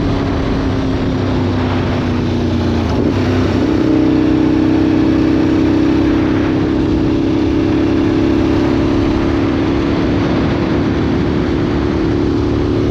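2003 Aprilia Tuono 1000's 60-degree V-twin running through an aftermarket Remus exhaust while riding. The engine note dips briefly about three seconds in, then comes back louder and higher and holds steady.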